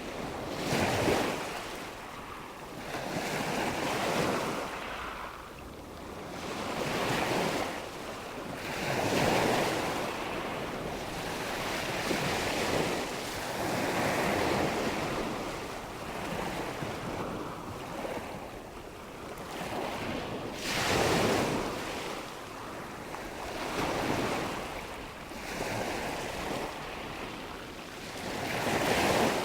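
Nature ambience of rushing water and wind: a steady wash of noise that swells and fades every two to four seconds.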